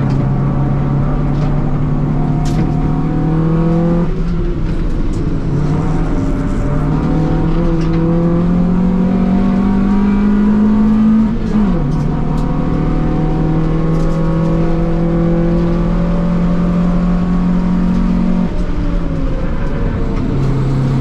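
Honda Civic's D-series four-cylinder engine pulling hard on a track lap, heard from inside the cabin. The engine note climbs slowly, drops sharply at a gear change just past halfway, holds steady, then falls again near the end.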